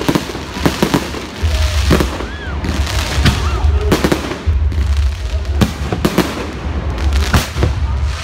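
Fireworks display: aerial shells bursting in irregular sharp bangs, several a second, over a steady low rumble.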